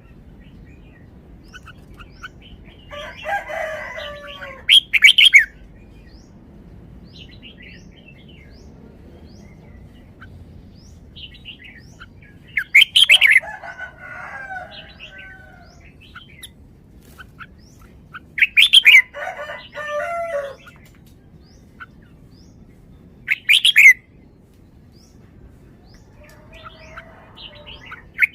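Red-whiskered bulbul singing in short, bright phrases of rising and falling notes. About four or five bursts of song are separated by pauses of several seconds.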